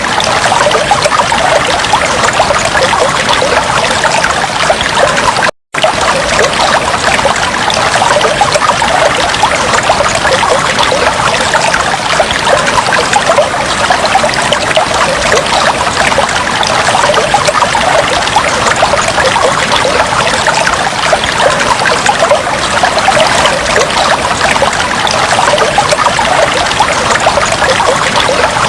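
Aquarium water trickling and splashing steadily, as from a tank's filter outflow. It cuts out for a split second about five and a half seconds in.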